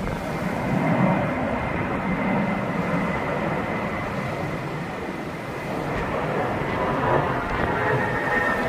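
Jet airliner engines running, a continuous rushing roar with a steady high whine over it.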